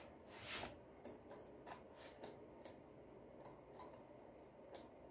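Faint small clicks and light taps at an irregular pace, about two a second, from handling the opened vacuum cleaner's parts and test probes, over near silence.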